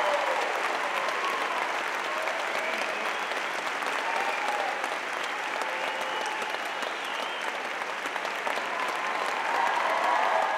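Theatre audience applauding steadily, with a few cheering voices in the clapping.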